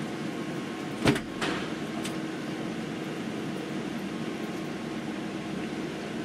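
A single sharp crack about a second in, followed by two fainter clicks, over a steady background hum: the sound of .22 LR rifle shooting, a shot and then the working of the action.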